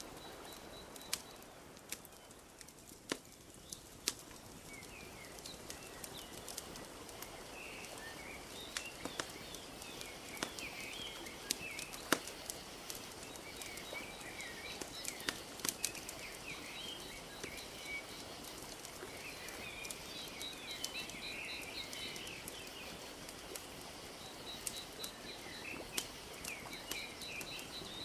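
Wood fire crackling with scattered sharp pops over a steady soft wash of lake water lapping, while small birds chirp and twitter, busier from several seconds in.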